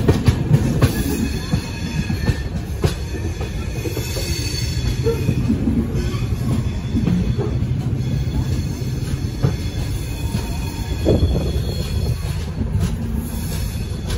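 Karnataka Express coaches rolling slowly through Yelahanka Junction: a steady low rumble of wheels on rail, with wheel squeal about four to five seconds in and occasional clacks over rail joints.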